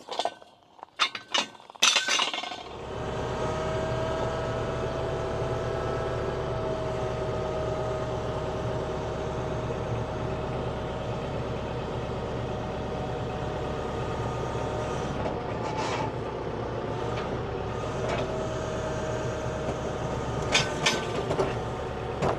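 A few metallic clinks, then a compact tractor's diesel engine starts about two and a half seconds in and runs at a steady idle, with a few more metal clicks near the end.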